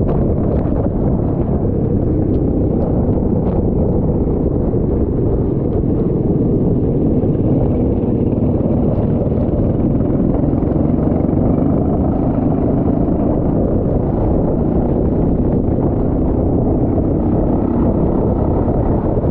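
Kart engine running steadily under power, its pitch drifting slightly up and down.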